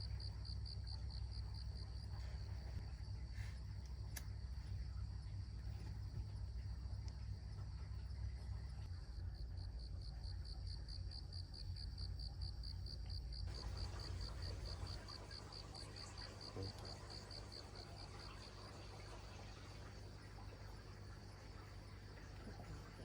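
A cricket chirping in a fast, even pulse at a high pitch, faint, over a low hum that drops in level about fifteen seconds in.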